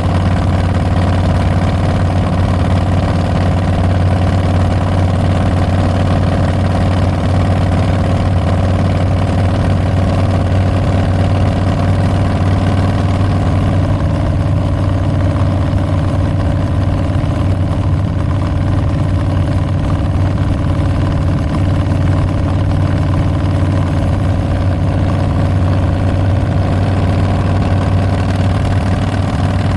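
Harley-Davidson Milwaukee-Eight 114 V-twin running through Tabs Performance slip-on mufflers with Zombie baffles, a steady, loud exhaust note. About halfway through, the engine's tone shifts slightly and then holds steady again.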